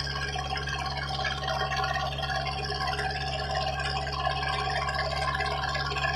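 Squid fishing boat's engine running steadily: a constant low hum with a rattling buzz over it.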